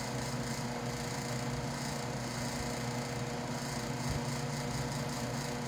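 Noisy electric fan running steadily, a constant hum under an even rush of air.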